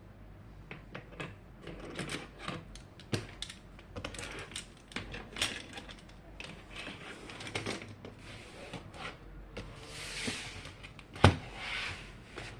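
Close-up handling of planner-decorating materials: paper and stickers rustling, with light irregular taps and clicks and one sharp knock near the end.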